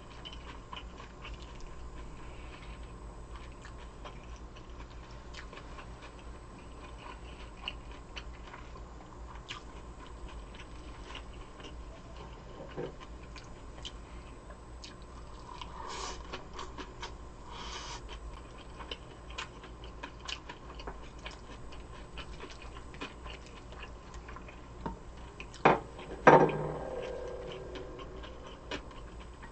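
Close-miked eating: steady chewing with many small, sharp mouth clicks. Near the end come two loud knocks, the second ringing briefly, like a dish or utensil set down.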